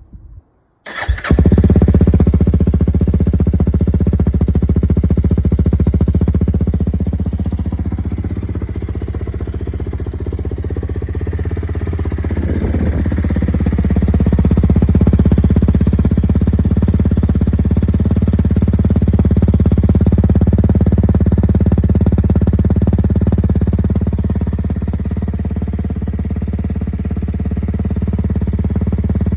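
Honda CRF300L's single-cylinder four-stroke engine running through an aftermarket AliExpress slip-on muffler, without its baffle insert, on the stock header. It cuts in loud about a second in and holds a steady idle, with the engine speed briefly rising and falling around the middle.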